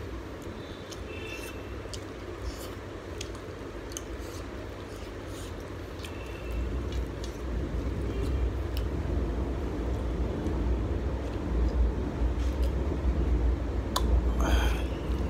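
Close-up wet chewing and squishing of curry-soaked rice and prawns eaten by hand, with small mouth clicks and a wetter slurping sound near the end, over a low rumble that grows louder about halfway through.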